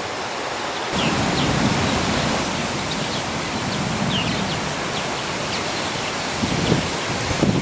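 Wind from an approaching storm blowing steadily with a hiss, getting stronger about a second in, with gusts buffeting the microphone in low thumps near the end. Faint short bird chirps come through now and then.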